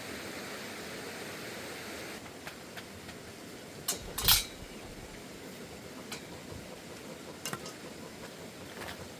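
A few sharp clinks and knocks of hard objects being handled, the loudest about four seconds in, over a steady hiss that fades after about two seconds.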